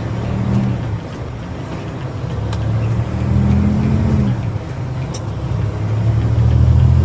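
Turbocharged engine revving in three surges, each rising and then falling back. A faint high turbo whistle rises and falls with the later revs.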